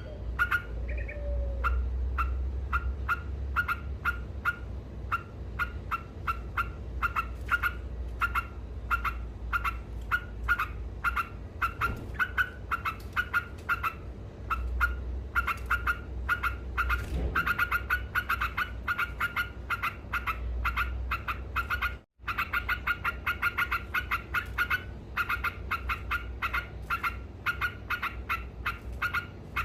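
Yellow-vented bulbul (trucuk) singing its 'ngekek' chatter: a long, unbroken run of short, rapidly repeated notes, a few a second and quickening later on. The sound cuts out completely for a moment about 22 seconds in, then the chatter resumes.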